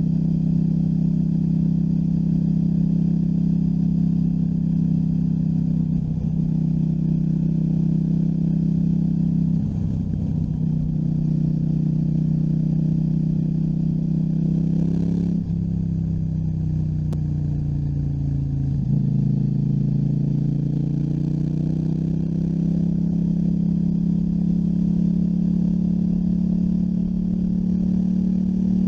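KTM 790 Duke's parallel-twin engine running steadily under way, with short breaks in the note about six and ten seconds in. About halfway through the engine pitch falls for a few seconds as the bike slows, then climbs again and holds steady.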